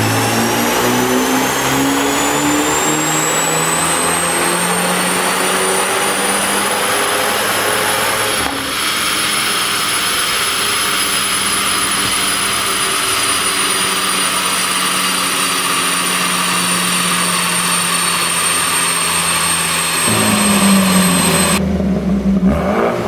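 BMW 428i's turbocharged 2.0-litre four-cylinder on a chassis dyno, pulling under load with its pitch rising steadily for about eight seconds. It then drops suddenly to a steadier note with a high whine that slowly falls. About twenty seconds in the engine note changes again and starts moving up and down quickly.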